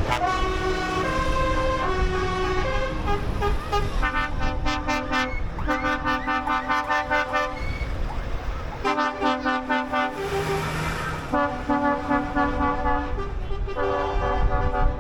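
A truck's multi-tone musical horn sounding a tune in long pulsed blasts that step between notes, with short breaks between phrases. A brief hiss comes between two of the phrases.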